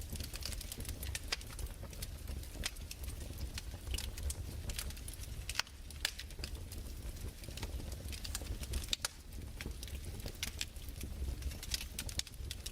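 Fireplace crackling: irregular sharp pops and snaps, several a second, over a faint hiss and a steady low rumble.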